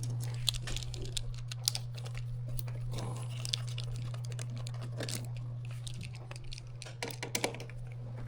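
Small irregular clicks and taps of case screws being unscrewed from a spectrum analyzer and set down one by one, over a steady low hum.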